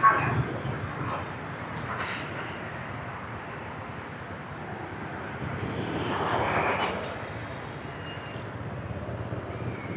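Motorbike traffic heard from a riding scooter: a steady low engine hum and road and wind noise. A louder passing vehicle swells up and fades away about six to seven seconds in, and there is a brief sharp sound at the very start.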